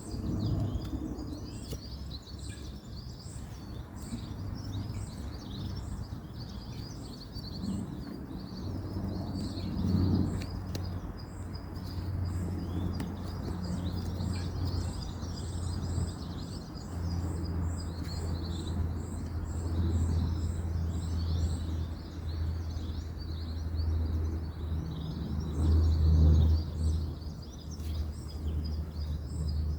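Woodland ambience: many birds chirping and calling, with a high chirp repeating about twice a second. Under it runs a steady low rumble of distant road traffic that swells a few times.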